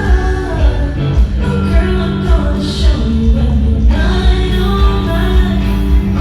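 Live band music with singing over a heavy bass and a steady beat about twice a second, as heard from backstage.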